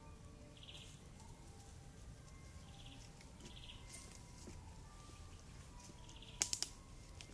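A bird gives a short, high call four times at uneven gaps, over faint distant bird notes. About six and a half seconds in there is a quick run of three sharp clicks.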